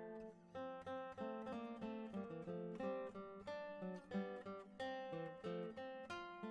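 Background instrumental early music on plucked strings, a quick run of picked notes with a steady pulse.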